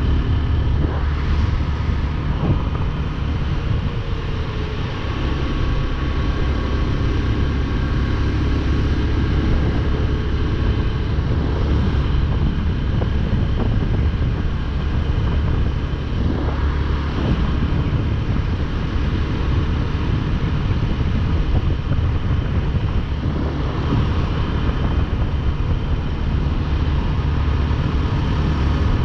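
Motorcycle riding at a steady speed: the engine runs evenly under road noise, with no gear changes or revving.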